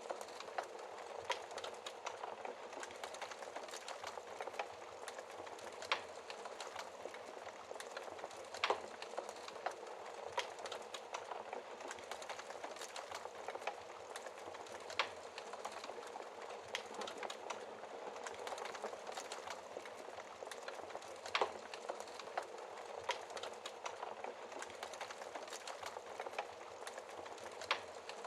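Wood fire burning in a fireplace: a steady hiss of flames with irregular crackles and sharper pops from the burning logs, a few louder pops scattered throughout.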